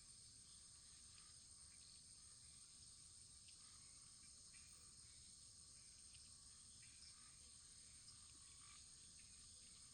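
Faint wood fire crackling: scattered small pops and ticks over a steady high hiss and a low rumble.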